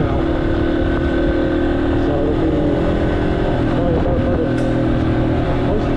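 Yamaha XT250's single-cylinder engine running at a steady pace while the motorcycle is ridden.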